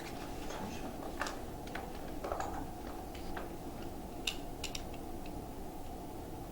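A few scattered light clicks and taps, irregularly spaced, over a steady low room hum.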